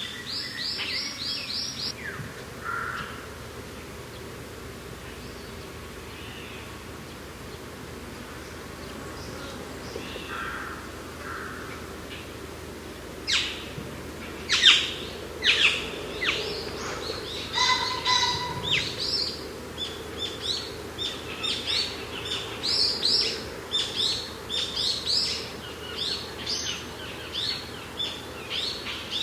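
Wild birds chirping and calling: a quick run of calls at the start, a quieter stretch with a few scattered notes, then from about halfway a busy string of short, high chirps several a second. A steady low rush of mountain wind runs underneath.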